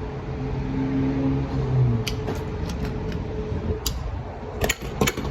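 Steady low hum of a car engine running, heard with the car's background noise, then a few sharp clicks about two seconds in, near four seconds and twice near the end.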